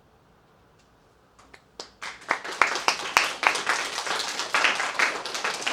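Near silence as the music dies away, then a few scattered claps about a second and a half in, building from about two seconds into a small audience applauding.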